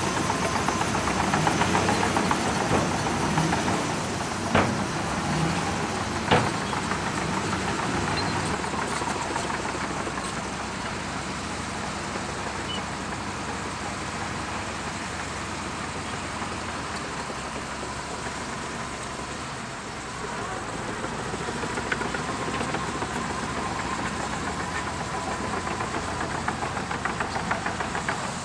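Shantui DH17C2 bulldozer's diesel engine running while it works, with two sharp clanks about four and a half and six seconds in. The engine settles somewhat quieter after about eight seconds.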